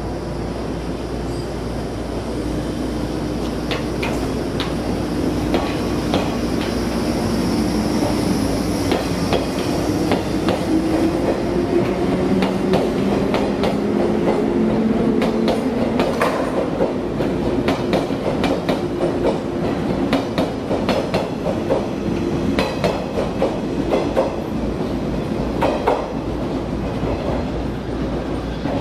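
183-series electric limited express train running along the platform, its wheels clacking over rail joints over a low running hum; the clacks come thicker and the sound grows louder as the cars pass close by.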